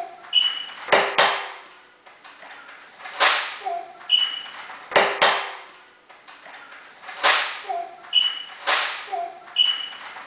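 A metal food can being struck again and again to break it open after its pull tab came off: a series of sharp blows, some in quick pairs, several followed by a brief metallic ring.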